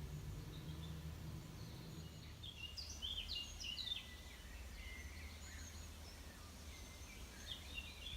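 A small bird singing a quick twittering phrase about three seconds in and another near the end, over a steady low rumble.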